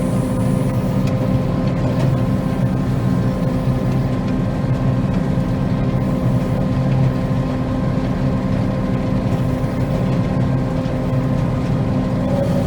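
Combine harvester running steadily while cutting soybeans: a constant engine and machinery drone with a steady hum that does not change pitch.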